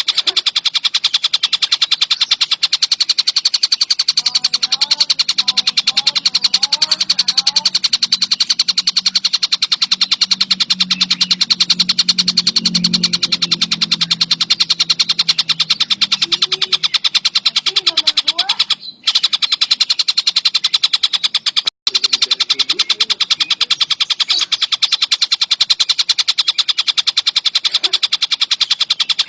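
Tengkek buto kingfisher calling in a long, fast, continuous chattering trill of evenly spaced high notes, broken twice by short gaps about two-thirds through.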